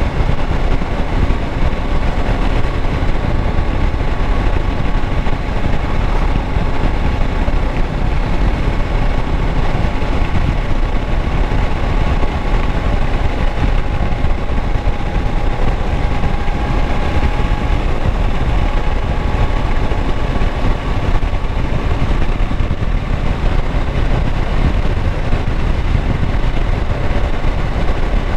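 A 2016 Kawasaki Versys 650's parallel-twin engine running steadily.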